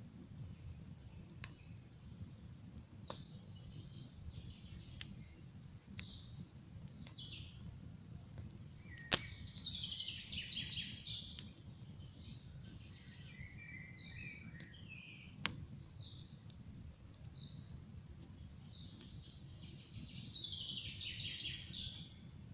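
Campfire crackling, with sharp single pops every few seconds over a steady low rumble of the flames. Songbirds sing throughout: short chirps, and a descending trilled song twice, about nine seconds in and again near the end.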